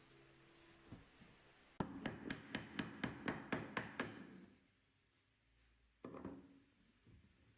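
A quick run of about ten hammer blows on wood, roughly four a second, then one duller knock about six seconds in.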